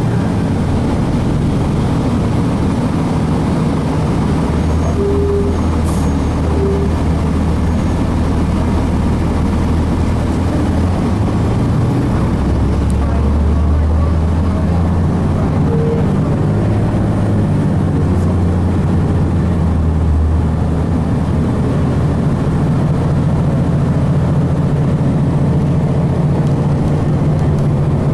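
Cummins ISC diesel engine of a 2002 Blue Bird transit bus running under way, heard from aboard the bus, its note rising and falling with the bus's speed.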